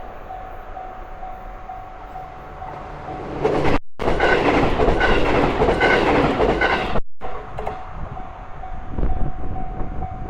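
Level crossing warning bell ringing in a steady, evenly repeating rhythm while an HB-E210 series hybrid diesel railcar train passes over the crossing. The train is loud for about three seconds from about three and a half seconds in, with wheels clicking over rail joints about once a second.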